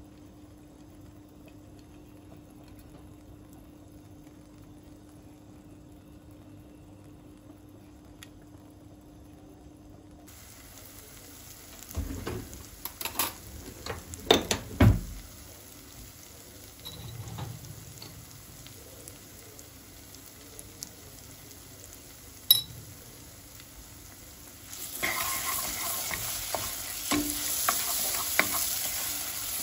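Kitchen cooking sounds: a low steady hum at first, then clattering with a few loud knocks of utensils or cookware about halfway, a single sharp click, and near the end a steady sizzle of food frying in a pan.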